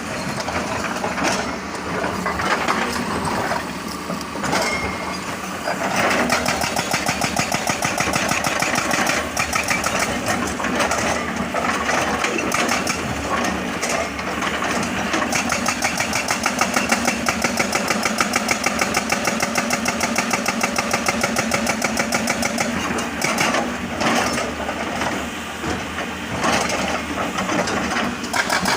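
Jackhammer hammering in fast, regular blows, over the sound of the machine's engine.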